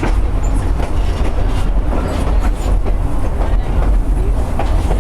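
Durango & Silverton narrow-gauge steam train rolling along the track: a steady low rumble of the cars with scattered clicks of the wheels over the rails.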